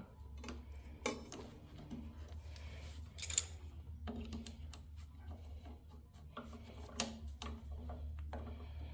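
Faint scattered clicks, taps and rubbing from hands and tools working on a garden tractor, over a low steady hum.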